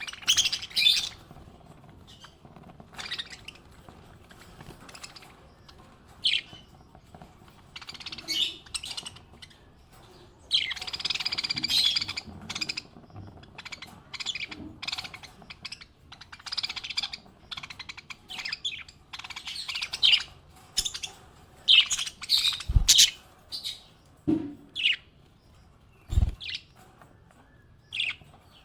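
Small pet parrots chirping in short, high-pitched calls with pauses between them, with a longer run of chatter in the middle. Two brief low thuds come near the end.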